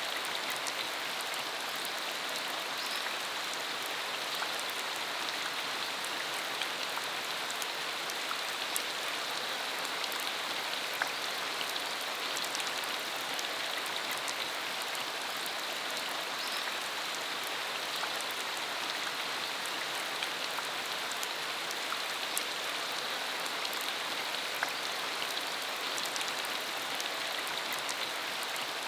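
Steady rain falling on a dirt country road, an even hiss with scattered sharp drop taps.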